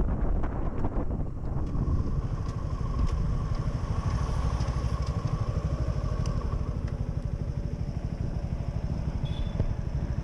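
Suzuki V-Strom 250 SX motorcycle's single-cylinder engine running steadily while riding at road speed.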